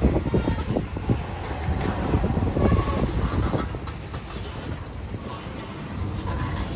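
A train rolling past with a steady rumble, its wheels knocking over rail joints. Brief thin wheel squeals come through early on and again about two and a half seconds in.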